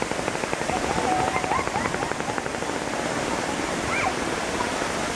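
Steady rush of falling water from a jungle waterfall.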